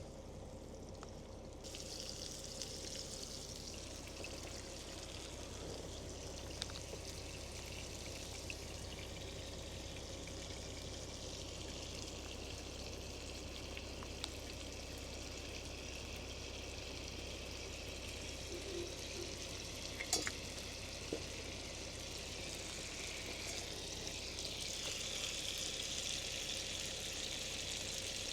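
Chicken frying in a pot: a steady sizzle that starts about two seconds in and grows a little louder near the end, with a few faint clicks over a steady low hum.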